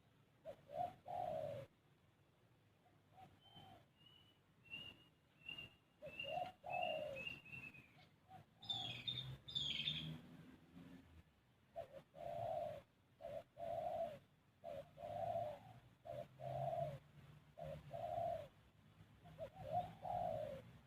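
Dove cooing in a repeated series of short notes, evenly spaced for a stretch in the second half. A smaller bird gives a run of thin, high chirps a few seconds in, and there is a brief burst of higher calls about halfway through.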